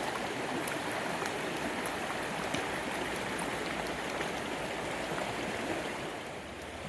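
Small wild stream flowing, a steady even rush of water.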